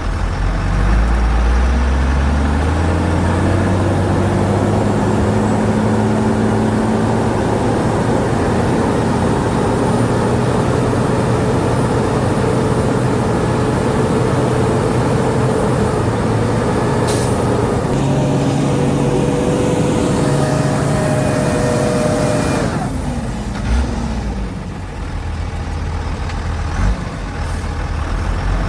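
Heavy diesel engine of earthmoving machinery revving up and running hard under load. The pitch falls as it throttles back about three-quarters of the way through, then climbs again near the end.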